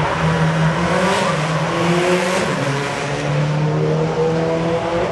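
Rally car engine revving hard under acceleration. Its pitch climbs, drops at a gear change about three seconds in, then climbs again.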